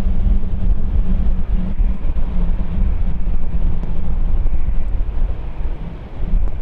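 Wind buffeting the microphone, a loud, fluttering low rumble with no clear events in it.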